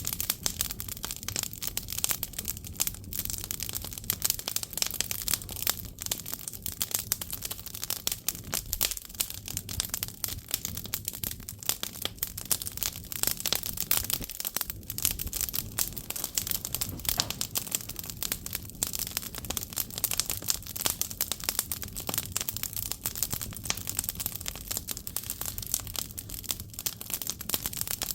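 Firewood burning in a Korean agungi firebox: dense, irregular crackling with a low rumble of the fire underneath.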